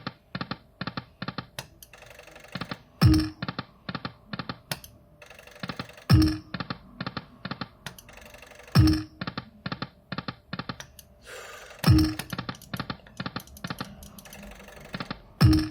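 Slot machine spinning again and again, about every three seconds: each spin opens with a low thump and a short tone, then a quick run of clicks as the reels stop one after another. Five spins in all.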